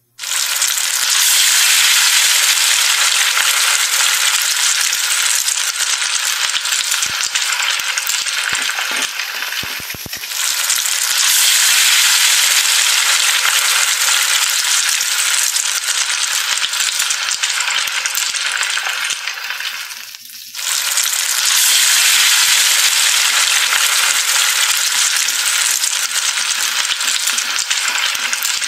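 Hot cooking oil sizzling loudly in an aluminium wok as chopped onion and garlic fry in it. A few clicks come about a third of the way in, and the sizzle dips briefly twice.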